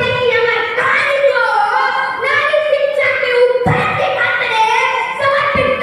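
A child's voice chanting verse in long, drawn-out sung notes, with a few short low thumps along the way.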